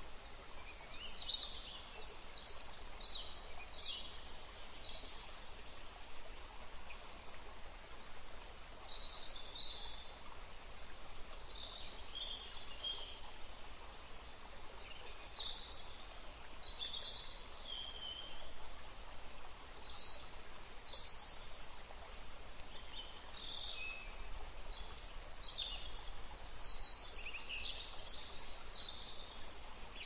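Birds chirping and calling, with many short high notes scattered throughout over a steady background hiss.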